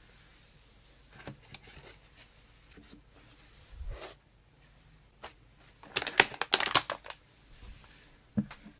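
Hands handling PC components and their packaging: scattered clicks and short rustles, a loud burst of rattling clicks and crinkling about six seconds in, and a single sharp knock near the end.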